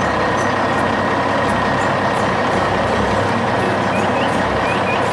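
Heavy construction machinery running: a steady, dense engine and machine noise with a faint whine, plus a few small high chirps near the end.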